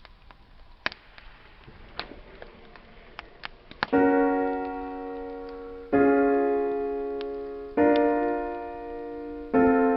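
Wood fire crackling with faint scattered pops, then a solo piano comes in about four seconds in with slow chords, struck about every two seconds and left to ring out.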